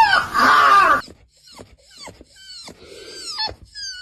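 Dog howling in a rooster-like crow: a loud wavering howl that rises and falls in the first second, then quieter short falling whines and a long, level howl note near the end.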